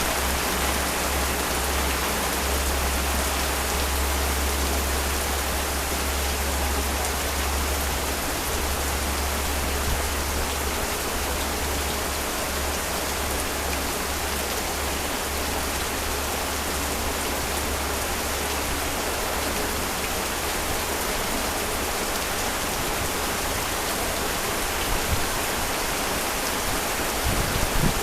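Heavy rain pouring steadily, with a steady low rumble underneath.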